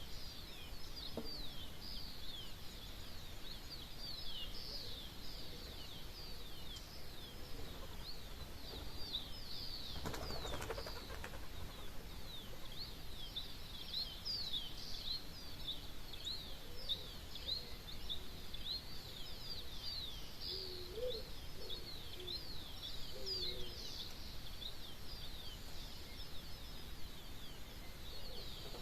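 Dawn chorus of many small songbirds chirping continuously, a dense run of quick, high, downward-sliding chirps. A brief rush of noise comes about ten seconds in, and a few short, low calls sound near the two-thirds mark.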